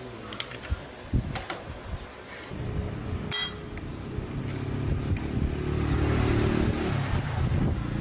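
A few sharp clicks and knocks, then a motorcycle engine running with a steady low note that grows louder over several seconds.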